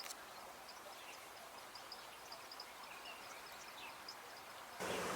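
Outdoor ambience with faint, scattered high-pitched chirps from small birds. Near the end a louder, steady hiss-like noise starts suddenly.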